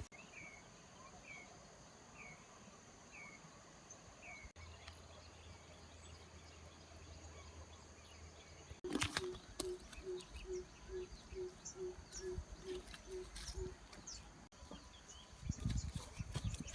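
Faint outdoor ambience with birds calling. A short falling chirp repeats about once a second, and later a low call repeats quickly about a dozen times amid rustling, over a faint steady high hum.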